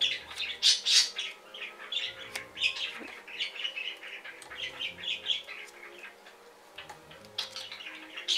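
A bird chirping and squawking in short, irregular calls, over a faint steady hum.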